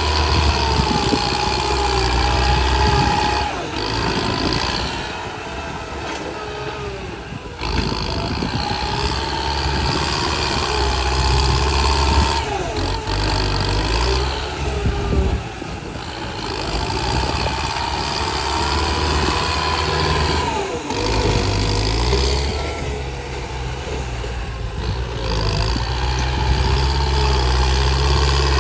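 Truck engine running under a changing load, with a wavering whine over a low rumble that eases off and picks up again every few seconds.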